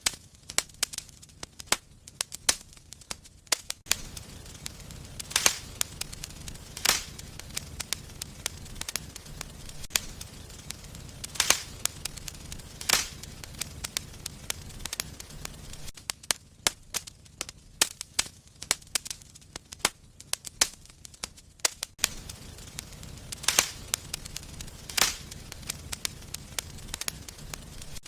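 Wood fire in a fireplace crackling, with sharp pops and snaps of varying loudness several times a second. A low, steady rumble of flame sits underneath in stretches, dropping out for a few seconds in the middle.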